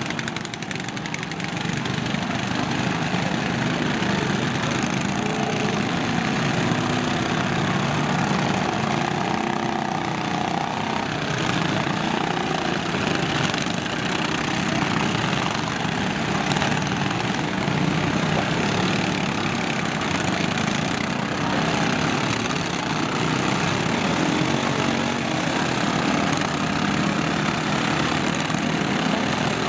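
Several lawn tractor engines running together in a steady, continuous drone.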